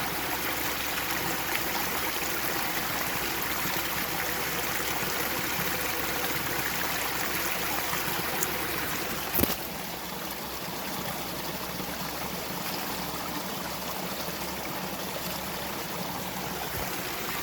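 Small spring-fed freshwater stream pouring down over rocks, a steady rushing and trickling of water. A single sharp click comes about nine seconds in, after which the water is a little quieter.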